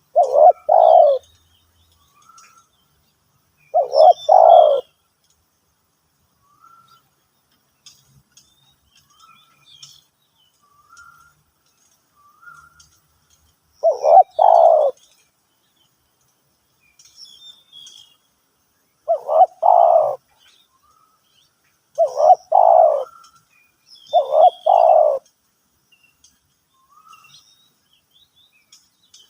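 Spotted dove cooing: six short, loud, low phrases of two or three quick notes each, at uneven intervals. Faint high chirps of small birds come in between.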